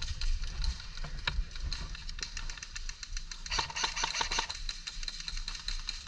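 Airsoft electric guns firing, a rapid clicking rattle of shots, with a denser burst about three and a half seconds in.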